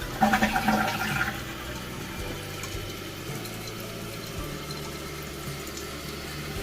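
Toilet cistern refilling through its fill valve, with water running in steadily; louder for the first second or so, then an even flow. This is the valve after treatment for the hissing and water hammer it had been sending through the pipes.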